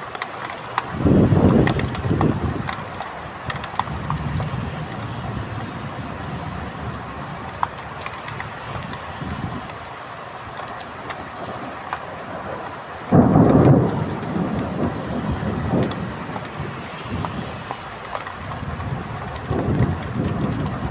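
Rain falling steadily, with scattered sharp drop ticks, broken by loud low rumbles about a second in and again about thirteen seconds in, and weaker ones near the end.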